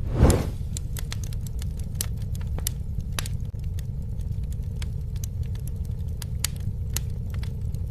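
Fire burning with a steady low rumble and frequent sharp crackles and pops, with a brief louder whoosh of flame near the start.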